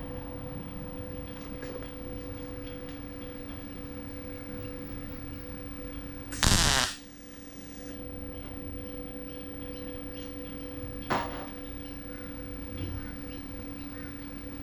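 Workshop background hum of two steady tones, broken by one loud half-second burst of noise about six and a half seconds in and a sharp metallic-sounding click a few seconds later.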